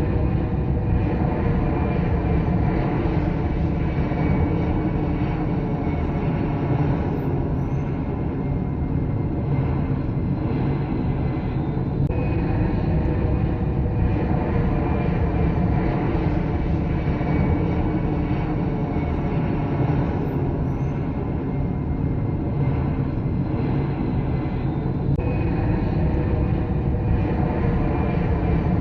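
Passenger airliner jet engines running: a steady heavy roar with a high turbine whine that slowly drifts down in pitch. The sound changes abruptly about twelve and twenty-five seconds in.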